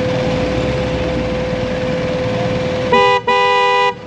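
A vehicle horn sounds twice near the end, a short beep and then a longer one, loud and close. Under it runs the steady noise of riding on the motorcycle.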